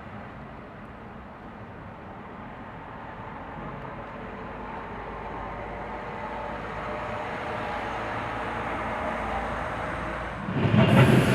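Train approaching through a station, its running noise growing steadily louder with a faint hum of tones, then a sudden loud rush of noise near the end as it arrives close by.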